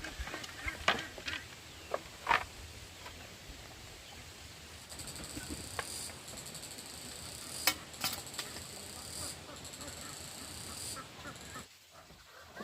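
A few sharp knocks and taps, then a high-pitched insect chirr that starts about five seconds in, pulses rapidly and steadily, and stops shortly before the end.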